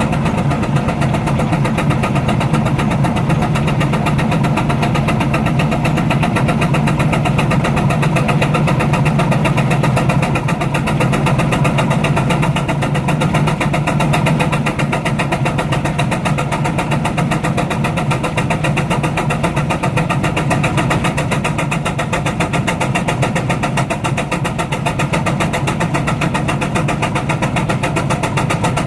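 Baker steam traction engine running steadily under load, working against a prony brake, with a fine, even beat.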